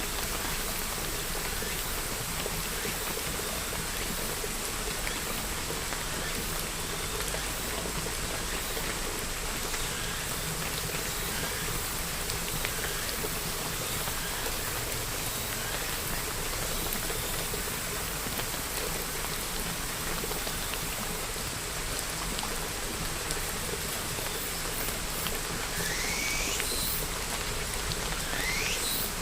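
Steady rainfall, with drops pattering on a surface. Near the end, a few short high-pitched rising sweeps sound over the rain.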